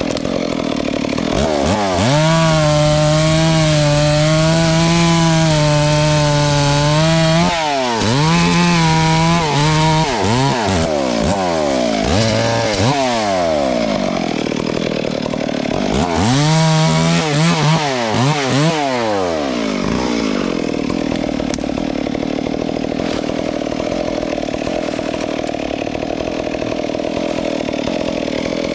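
Chainsaw engine revving: held at high speed for several seconds, then dropping and rising in pitch again and again. For the last third it settles into a lower, steady run.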